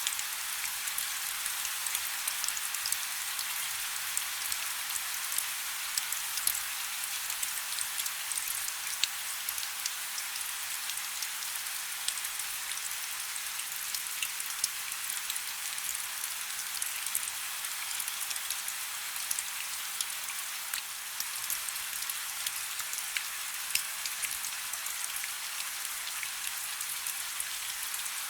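Steady rainfall: an even hiss with many small drops ticking sharply on a surface.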